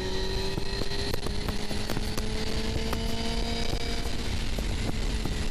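Suzuki GSX-R750's inline-four engine running at road speed, its pitch slowly rising, over steady wind rush on the helmet microphone.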